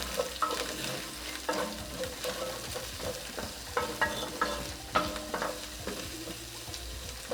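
Onion, ginger and garlic sizzling in hot oil in a frying pan as they are stirred, with the utensil knocking and scraping against the pan every second or so.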